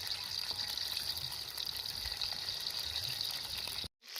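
Running water trickling and splashing steadily, cut off abruptly near the end.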